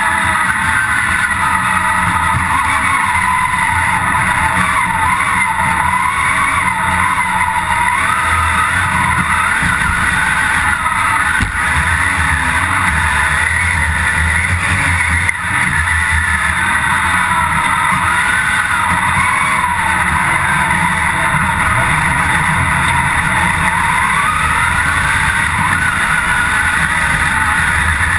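Off-road competition vehicle's engine working hard under load, heard from inside the cab, its revs rising and falling over and over with the throttle.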